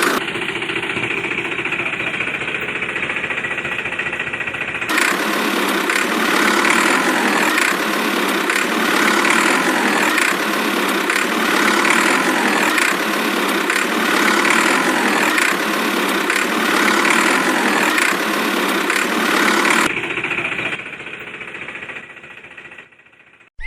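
Tractor engine sound running steadily with a knocking beat. It gets louder and fuller about five seconds in, then drops back to a lower level near the end.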